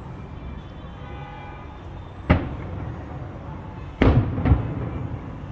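Fireworks bursting: three sharp bangs, one about two seconds in and two close together near four seconds in, each trailing off in a rolling echo, over a steady low rumble.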